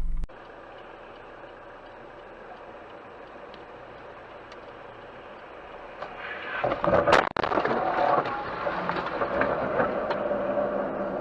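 Dashcam recording of steady road noise from a moving car, then a sudden surge of noise and a loud crash about seven seconds in, with noise carrying on after the impact.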